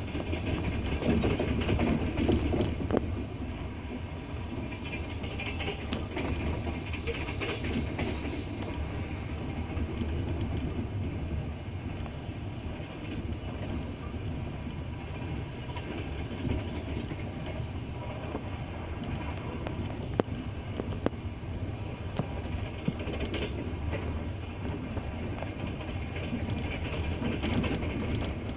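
Double-decker passenger train running steadily, its wheels clattering over the rail joints: a continuous low rumble with occasional sharp clacks.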